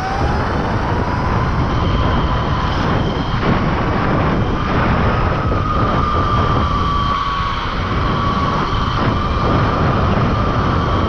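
Electric mini bike running at high speed on a 72-volt pack, its motor whining in a thin tone that climbs in pitch over the first five or six seconds as it gathers speed, then holds and eases slightly. Heavy wind rush on the microphone runs under it.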